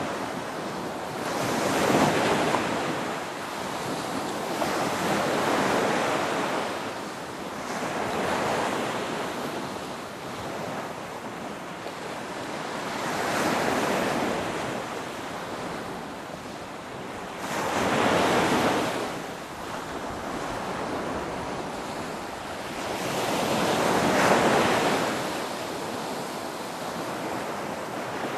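Ocean waves breaking and washing up, each swell rising and falling every few seconds, with the strongest breakers about 2, 18 and 24 seconds in.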